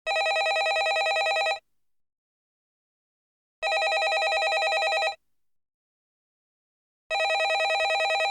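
Landline telephone ringing: three rings of about a second and a half each, spaced about two seconds apart, the last cut off at the end.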